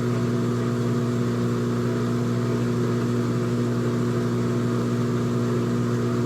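Old-style front-loading washing machine running with a steady, even hum that holds one pitch throughout.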